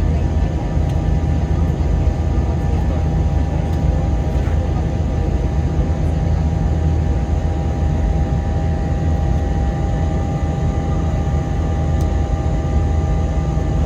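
Steady cabin drone inside an Airbus A321-200 in flight: engine and airflow noise with a heavy low rumble and a few faint steady tones.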